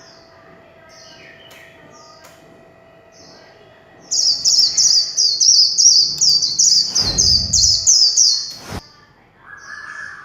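White-eye singing: a few soft high chirps, then about four seconds in a loud, fast run of high warbling notes lasting about four seconds, the 'líu chòe' song. A low thump and a sharp click come near the end of the run.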